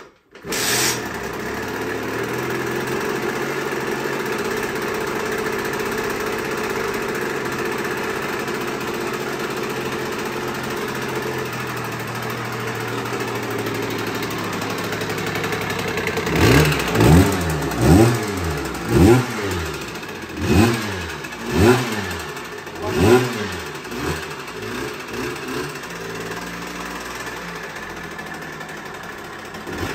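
Sherco two-stroke moped engine with a 70 cc Motoforce cast-iron cylinder kit and 44 mm stroke, running on its first start-up with the choke on. It comes in suddenly about half a second in and runs steadily, then is revved in about seven quick throttle blips, each rising and falling in pitch, before it settles back to idle. It carries a clacking that the owner first takes for the piston knocking and later puts down to the stock exhaust.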